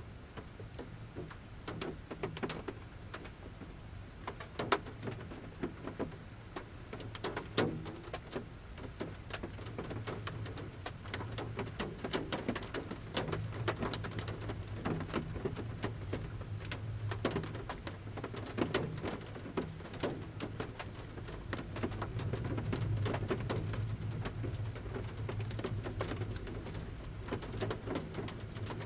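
Large raindrops falling from the forest canopy and tapping at irregular intervals on the roof of a camper van, heard from inside the van.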